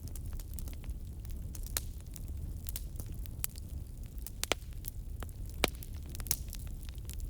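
Wood fire crackling and popping over a steady low rumble, with irregular snaps throughout and two louder pops about four and a half and five and a half seconds in.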